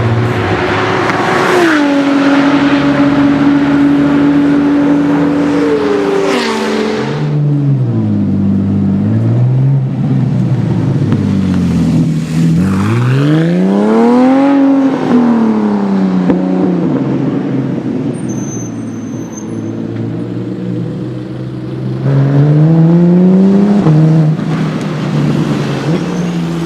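Porsche Cayman R's 3.4 L flat-six through a Fabspeed Race exhaust, running loud at high revs during hard acceleration and fast passes. The pitch climbs under throttle and drops sharply at upshifts, with rise-and-fall sweeps as the car goes by, about halfway in and again near the end.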